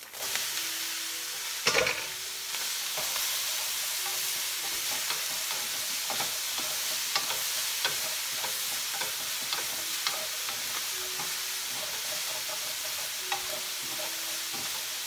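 Chopped asparagus and ground beef sizzling in a hot non-stick frying pan, a steady hiss with a louder burst about two seconds in, while a wooden spatula stirs them with light taps and scrapes.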